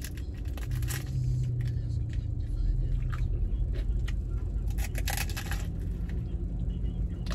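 Bites and chewing of a crunchy fish taco in a crisp shell: a few crisp crunches about a second in and a cluster around five seconds in. Under them runs the steady low rumble of the car's running engine, heard from inside the cabin.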